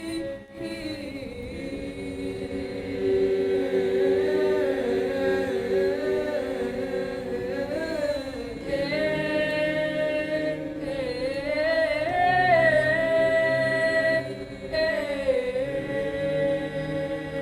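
Choir singing an arrangement of a West Sumatran folk song, several voice parts holding long, slowly moving notes. Lower voices join about halfway through, and the singing briefly drops near the end.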